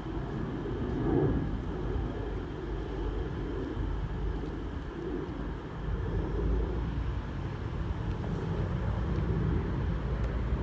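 A train's steady low rumble, with no sharp events.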